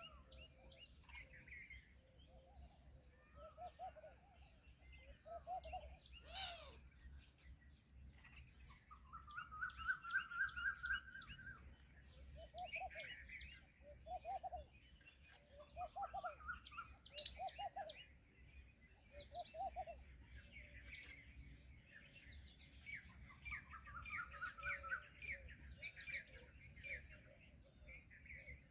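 Several birds chirping and calling over one another: quick high chirps, rising trills and a repeated lower call. A sharp click sounds briefly about seventeen seconds in.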